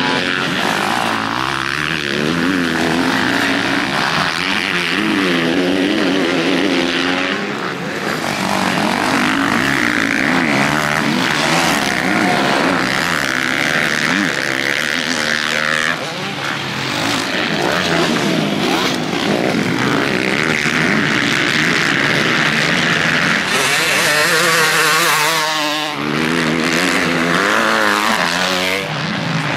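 Several motocross bike engines racing together, their notes rising and falling as the riders rev, shift and pass.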